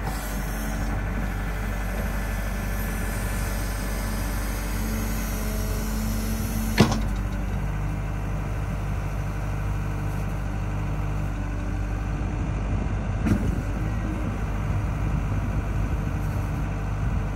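Diesel engine of a CAT 315F LCR hydraulic excavator running steadily at a low, even speed, with one sharp knock about seven seconds in and a fainter one about six seconds later.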